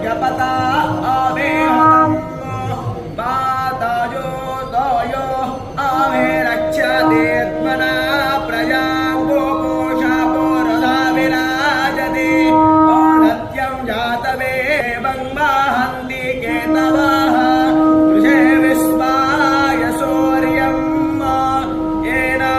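Devotional Hindu singing by male voices over a long held low note. The held note drops out twice and comes back.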